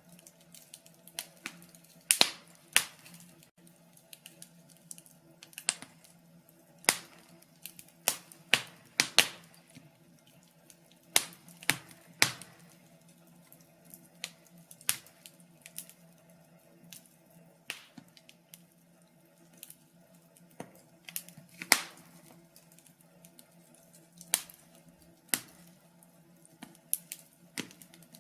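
Wood fire in a fireplace crackling, with irregular sharp pops and snaps every second or so, some louder than others, over a faint steady low hum.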